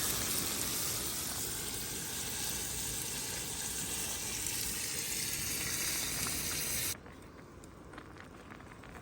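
Food sizzling in a hot pan, a steady hiss that cuts off abruptly about seven seconds in, leaving a much fainter hiss with a few small crackles.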